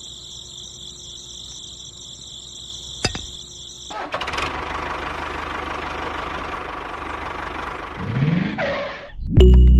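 Steady insect chirring with a single click, then a small motor-like running sound starting abruptly about four seconds in. Near the end it rises in pitch and cuts off suddenly, just before loud music begins.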